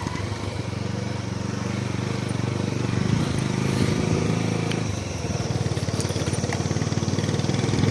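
Motorcycle engine running under way while riding, a steady pulsing hum with road and wind noise, dipping briefly about five seconds in before picking up again.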